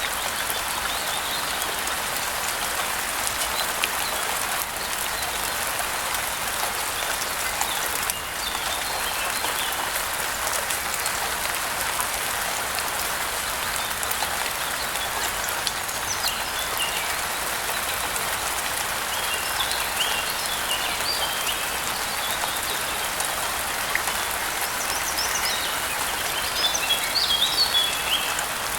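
Steady rain falling, with short bird chirps breaking in now and then and clustering near the end.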